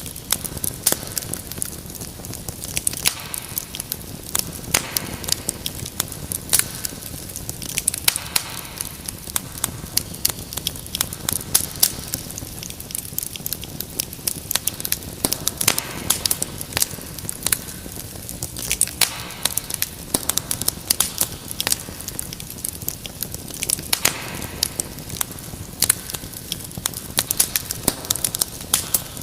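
Wood fire crackling steadily: dense, irregular sharp pops and snaps over a soft low rumble of burning.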